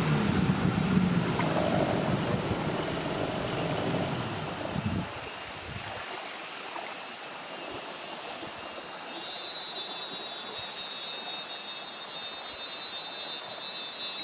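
Rainforest insects keep up a steady high-pitched buzz. A second, lower pulsing insect call joins about nine seconds in. A low rumble fades out over the first five seconds.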